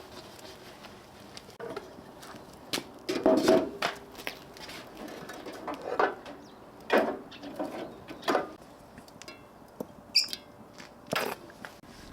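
A series of short, irregular knocks and clatters, several seconds' worth, spaced about a second or so apart.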